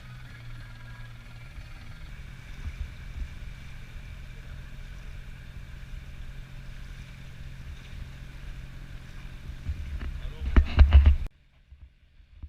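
Yacht's engine running steadily with a low hum under a wash of wind and water noise. A few loud low thumps come near the end, then the sound cuts off suddenly.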